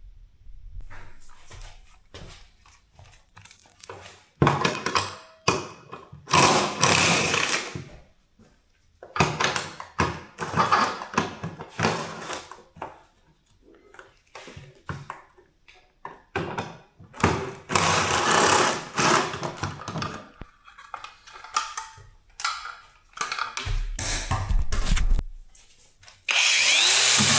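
A handheld power tool run in repeated short bursts of half a second to two seconds, with sharp clicks and knocks between the bursts.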